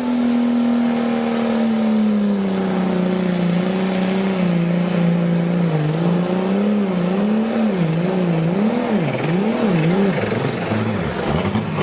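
Pulling tractor's engine running hard under load: its pitch sags over the first few seconds, then swings rapidly up and down, a couple of times a second, through the second half.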